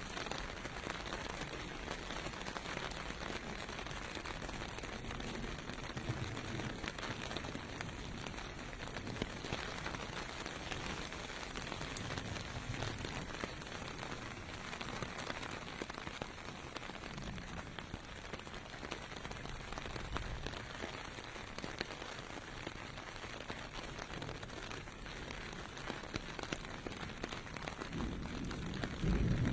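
Steady rain pelting on pavement, with low rumbles of distant cars and trucks passing now and then; the strongest pass swells up near the end.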